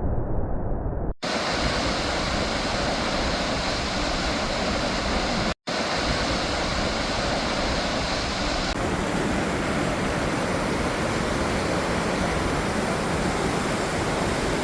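Steady rushing roar of a waterfall, muffled for the first second and then fuller, with two brief dropouts about a second in and just past the five-second mark.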